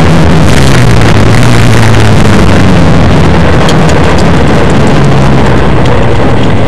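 Škoda 120 S rally car's four-cylinder engine running hard under load, heard from inside the cabin. The recording is overloaded, and the engine pitch rises and falls a few times as the revs change.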